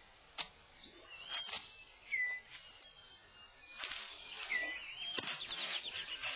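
Rainforest bird calls: short whistled notes that bend up or down, several times over, with scattered sharp clicks and rustles. In the second half the calls grow busier, with a quick run of repeated notes.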